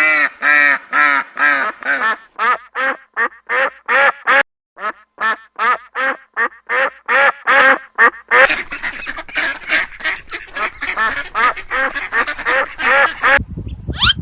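Duck quacking in a rapid series of short calls, about three a second. From about eight seconds in, the quacks come denser and overlap.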